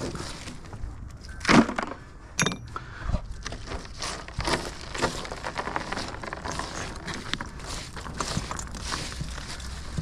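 Old chimney bricks being knocked loose and handled: a run of knocks, clinks and scrapes of brick on brick, the loudest knock about a second and a half in.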